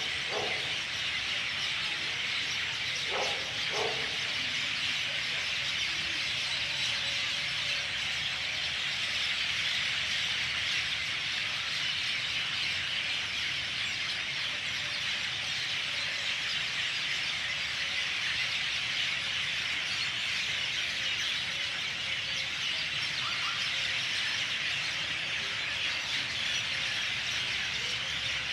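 Many birds chirping at once in a dense, unbroken chorus, with a few brief lower calls near the start and again a little before the end.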